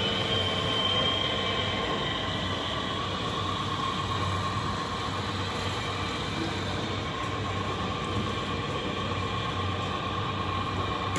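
Radio-controlled model construction machines running: the steady whine of their electric motors and gear drives over a constant hiss, with a higher whine that fades away about a second and a half in.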